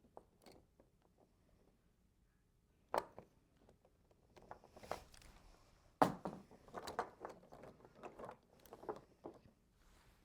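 Small die-cast toy monster trucks clicking and clacking against each other as they are picked through and handled, with a sharp knock about 3 s in, a louder one about 6 s in, then a run of light rattling clicks.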